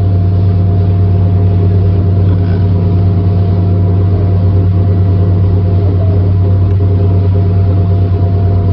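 Speedboat engine running steadily under way, a loud, even low drone with a constant hum, heard from on board.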